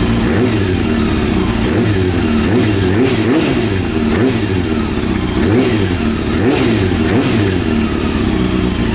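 Rebuilt Honda CB400 inline-four engine running, revved in quick repeated throttle blips so the engine note rises and falls over and over. All four cylinders are firing now that the third cylinder has been cured of its misfire, running on swapped-in carburetors still awaiting mixture and synchronization adjustment.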